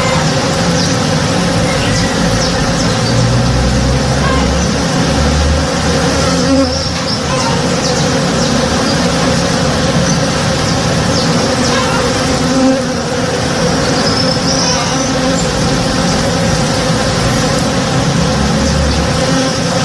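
Many honey bees buzzing together while foraging on a flowering tree: a dense, steady hum of overlapping wingbeats. A low rumble comes and goes underneath.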